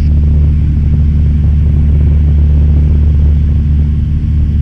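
A Cessna 172M's four-cylinder Lycoming engine and propeller droning in flight, heard from inside the cabin: a steady low hum with an unchanging pitch.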